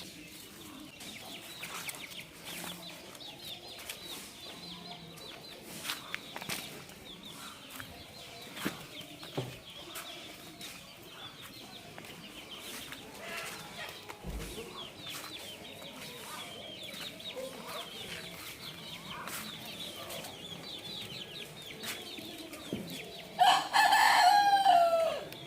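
A rooster crows once near the end, loud and drawn out, its pitch falling as the call ends. Before it there is only faint high chirping and a few scattered clicks.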